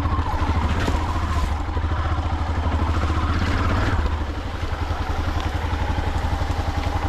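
Enduro motorcycle engine running steadily with a fast pulsing beat, a little quieter from about four seconds in.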